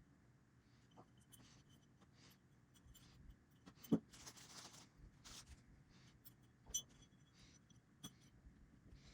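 Quiet handling of tools and parts: scattered light clicks and scrapes, with one sharper knock about four seconds in followed by a short hiss, and another knock a little later.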